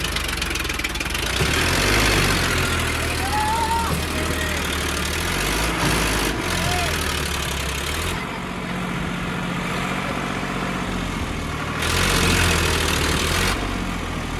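Sonalika DI 745 tractor's diesel engine running, its speed rising and falling several times as it works.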